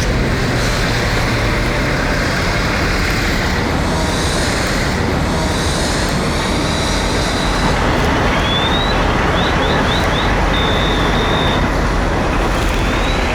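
Steady loud rumble and hiss of fire apparatus engines and pumps running at a working structure fire, with a few short high chirps a little after the middle and again near the end.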